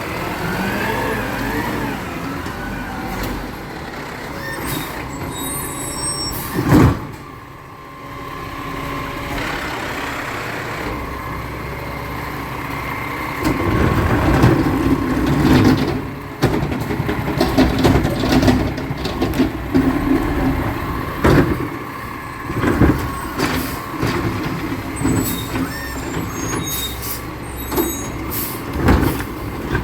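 Recycling truck running, with a sudden loud noise about seven seconds in. From about halfway it runs louder, with repeated clanks and knocks.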